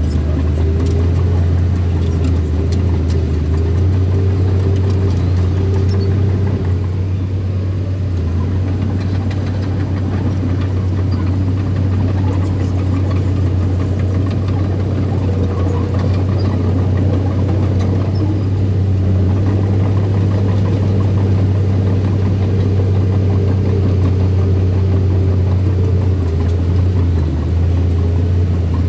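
Engine of a piece of earthmoving machinery running steadily: a deep, even hum that holds much the same speed throughout.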